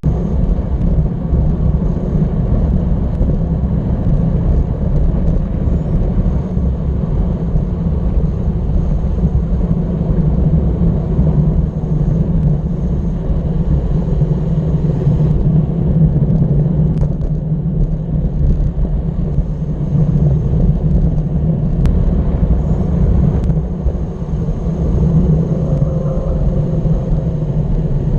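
Steady low rumble of riding: wind buffeting the microphone and road noise, with no breaks.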